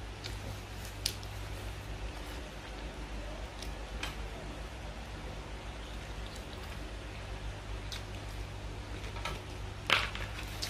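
Pizza being eaten: quiet chewing with a few short, sharp mouth clicks over a steady low hum, and a louder brief crackle near the end as a slice is set down on the cardboard pizza box.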